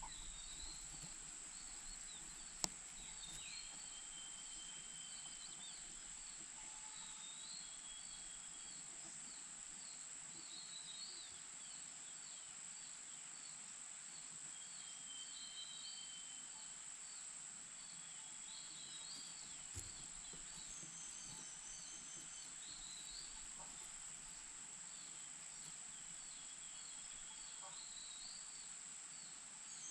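Outdoor ambience of many short, high bird chirps scattered throughout over a continuous high-pitched insect drone, with a single sharp click a little over two seconds in.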